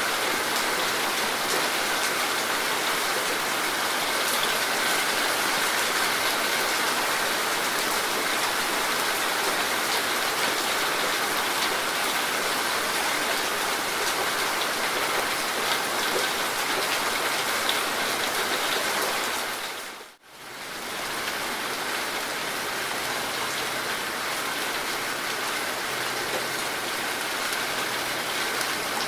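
Heavy rain falling steadily, an even hiss of drops. About twenty seconds in it fades out briefly to near silence and comes straight back.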